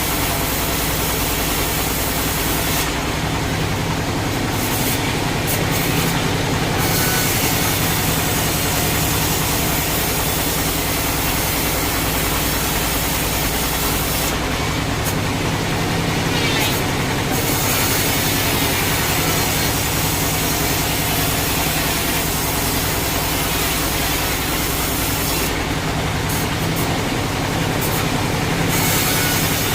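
Sawmill machinery running: a steady low engine hum under a loud hissing saw noise that drops away briefly three times.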